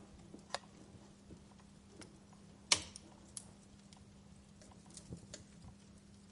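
Wood fire crackling: scattered sharp pops and snaps, one loud pop a little under three seconds in, over a faint steady low hum.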